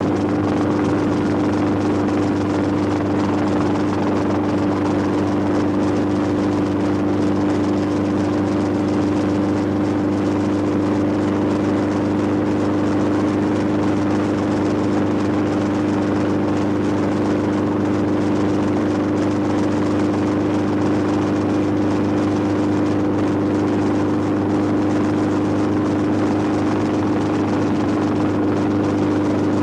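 Steady, unchanging engine drone with a constant hum that holds the same pitch throughout.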